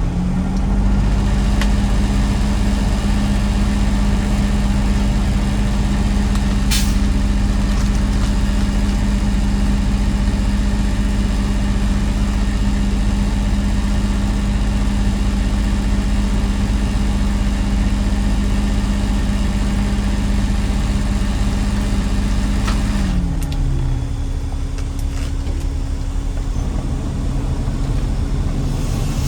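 Garbage truck's engine running at a steady speed with a low rumble and a steady drone, which drops in pitch about 23 seconds in as the engine eases off.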